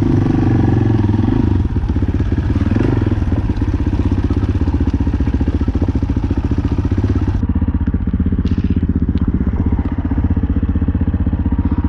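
Off-road motorcycle engine running steadily, its firing pulses even throughout.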